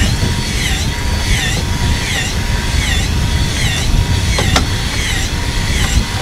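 Electric fishing reel motor whining as it winds in line, its pitch dipping about every 0.7 seconds, over a steady low boat rumble. A sharp click comes about four and a half seconds in.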